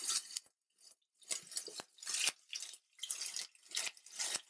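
Sofrito sizzling and crackling in hot olive oil in a frying pan as a spoon spreads it around, in uneven bursts that start about a second in.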